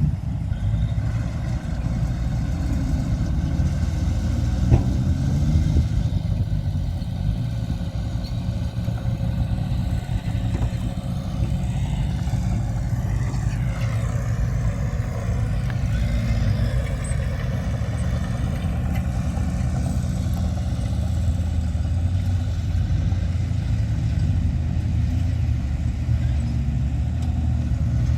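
Diesel engine of heavy earth-moving machinery running steadily, with a single sharp knock about five seconds in.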